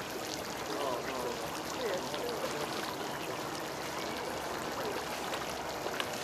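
Steady rushing background noise with faint, indistinct voices drifting through it.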